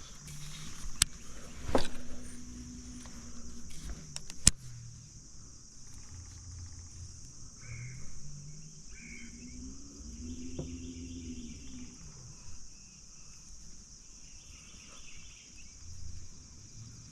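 Steady high insect drone throughout, with a few sharp knocks in the first five seconds and short bird chirps later on.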